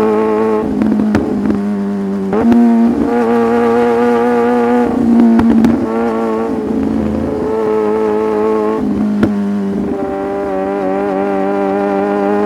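Sport motorcycle engine running at a steady cruising speed. Its pitch steps up slightly about two seconds in and settles back down later, with a few brief breaks and clicks along the way.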